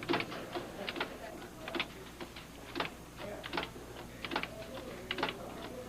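Keys being typed on a computer terminal keyboard: short, unevenly spaced clicks, about two or three a second, over a faint steady hum.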